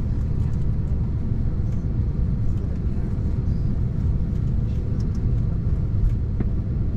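Steady low rumble of an Embraer 190-E2 airliner's cabin while on the ground, the airframe's engines, auxiliary power and air-conditioning making an even drone, with a few faint ticks above it.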